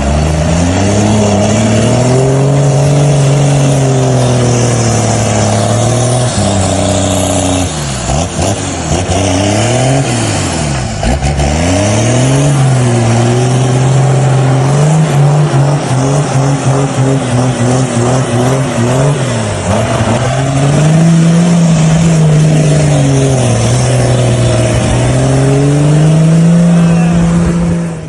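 Four-wheel-drive vehicle's engine revving hard, its pitch repeatedly rising and falling as the throttle is worked; about a third of the way in it drops low and surges back up several times in quick succession.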